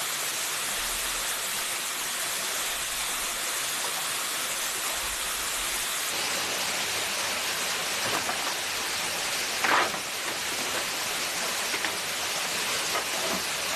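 Steady rushing of a forest stream, with a few short knocks in the second half, the loudest nearly ten seconds in.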